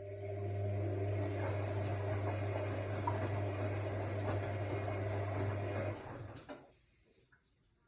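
AEG Lavamat L62850L washing machine running a short burst of steady electric hum with a rushing noise over it, which stops about six seconds in, followed by a single click.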